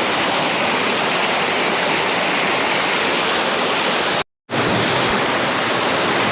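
Mountain stream rushing steadily over rocks, close to the microphone. The sound cuts out completely for a moment about four seconds in, then resumes.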